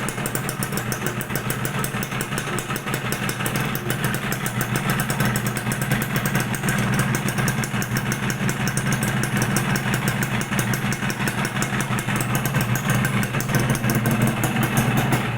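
Suzuki Satria two-stroke single-cylinder motorcycle engine running steadily through its stock exhaust, with a fast, even exhaust beat that grows slightly louder toward the end.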